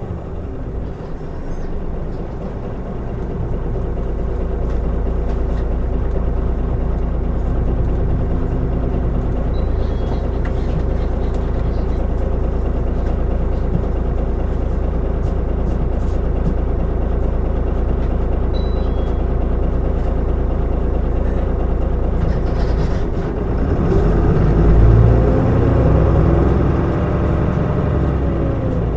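Mitsubishi Fuso Aerostar city bus (QKG-MP35FP, 2012) under way, its diesel engine and road noise building over the first few seconds and then running steadily. About 23 seconds in the engine grows louder and its pitch rises and falls.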